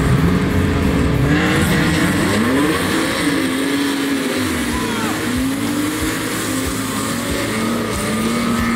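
Several stock-car engines revving as the cars race in a pack, the pitch rising and falling again and again as the drivers accelerate and lift off.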